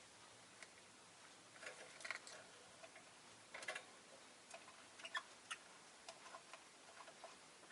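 Rosy-faced lovebird making faint, scattered clicks and taps in small clusters, the loudest a couple of sharp ticks about five seconds in.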